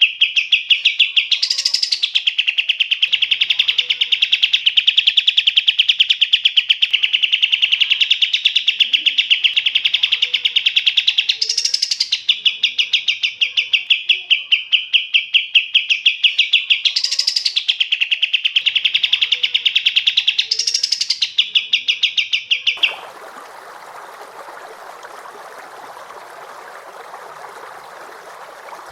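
A songbird singing a fast, rapidly pulsed trill almost without a break, with a few quick high flicks. About 23 s in the song stops and gives way to a steady hiss.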